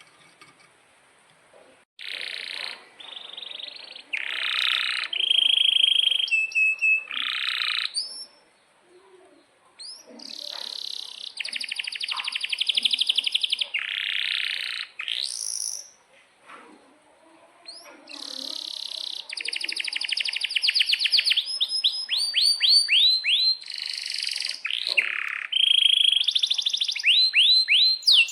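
Domestic canary singing a long song of rapid rolling trills and sweeping whistled notes, in phrases broken by short pauses. The song starts about two seconds in.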